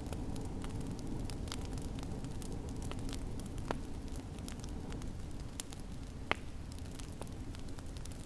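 Wood fire crackling in a fireplace, with irregular sharp pops, the loudest a little after six seconds in, over a steady low rumble.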